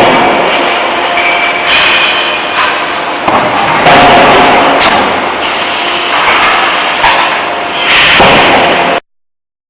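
Closed-die forging hammer striking the workpiece: several heavy blows at uneven intervals over loud, steady workshop noise. The sound cuts off abruptly near the end.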